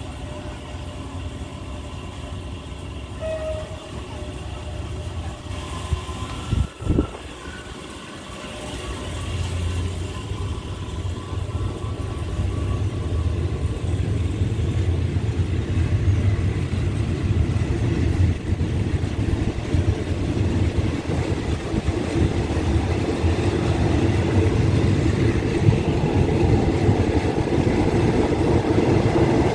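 Diesel-hauled passenger train: a steady low rumble of the train on the rails, a sharp knock about seven seconds in, then a louder, denser rumble that builds through the rest.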